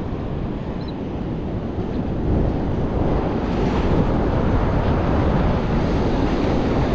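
Steady rush of surf with wind buffeting the microphone, growing louder about two seconds in.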